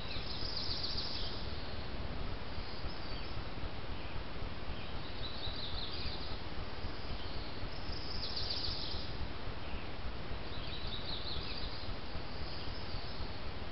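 Songbirds singing short, high chirping phrases that come every two to three seconds, over a steady hiss.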